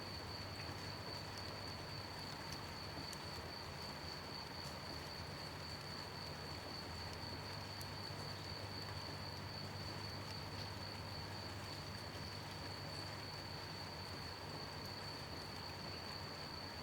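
Crickets chirping in a steady, unbroken high trill over gentle rain, with scattered faint drips.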